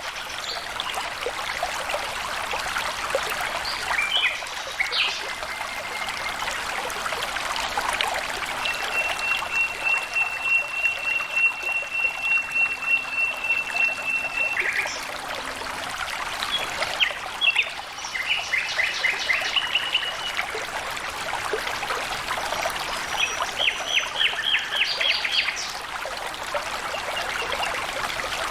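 Stream water trickling and flowing steadily, with birds calling over it. A long, even trill of about six seconds comes about a third of the way in, and short runs of rapid notes follow later.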